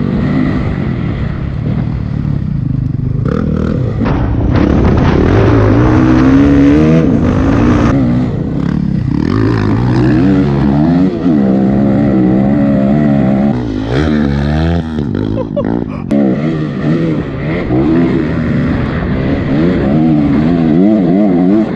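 Honda CRF250 dirt bike's four-stroke single-cylinder engine revving up and down again and again as the throttle is opened and shut through the gears, with a few sharp knocks about two-thirds of the way through.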